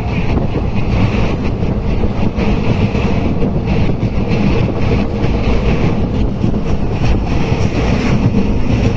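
Local passenger train running along the track, heard from on board: a steady, loud rumble of the carriage and its wheels on the rails.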